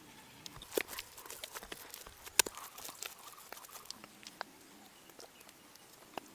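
Irregular light taps, clicks and knocks, with one sharper knock about two and a half seconds in.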